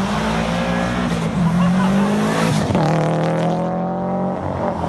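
Car engine running hard under acceleration, its pitch rising slowly, with a brief break and dip in pitch about two and a half seconds in before it pulls again.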